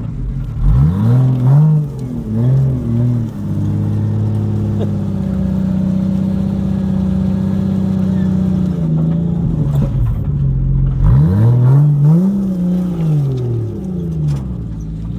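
Four-wheel-drive engine revving on a rough off-road track: its pitch rises and falls in a few quick blips, holds steady for several seconds, then rises and falls again near the end.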